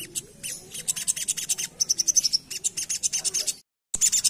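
Crimson sunbird (sogon) singing a fast chattering rattle of high, sharp notes, many a second. The song breaks off for a moment near the end, then resumes.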